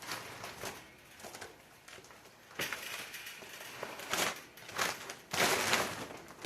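Plastic cover of a mini greenhouse rustling and crinkling as it is handled and strapped to the frame. It comes in several irregular bursts, the longest about five seconds in.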